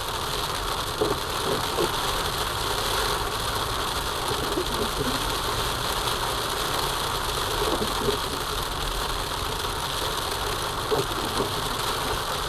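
Steady car engine and road hum heard from inside the cabin, with a few faint knocks.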